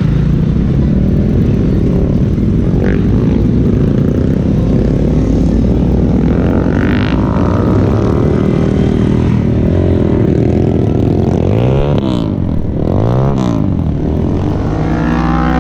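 Superbike engines running on a race track, a steady loud engine note throughout. Near the end the engine pitch drops and climbs again twice, as a bike comes off and back onto the throttle.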